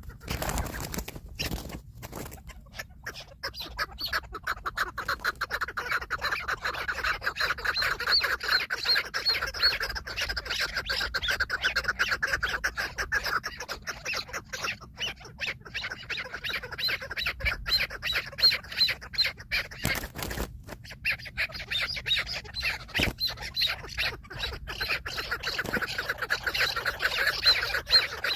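Chukar partridge calling: long runs of rapid, repeated chattering clucks, pausing briefly about two-thirds of the way through before starting again.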